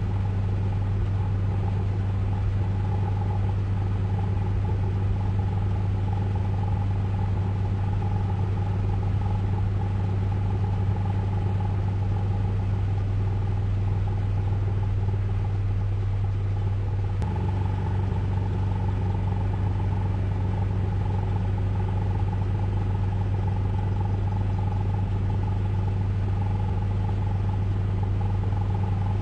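Ryko Radius automatic car wash machinery running: a steady deep hum with a faint higher whine over it, changing slightly about halfway through.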